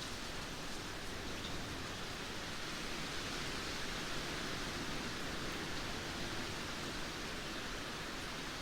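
Heavy rain falling as a steady, even hiss, with no thunder or distinct gusts.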